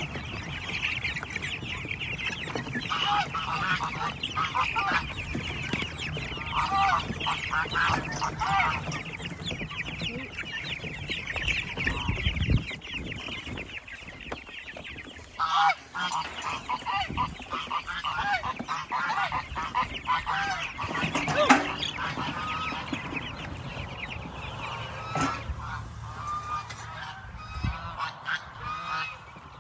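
Geese honking in repeated bunches over constant high cheeping from chickens. A single sharp knock comes about twenty-one seconds in.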